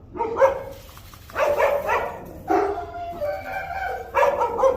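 Shelter dogs barking in repeated short bouts, with a longer drawn-out call a little past the middle.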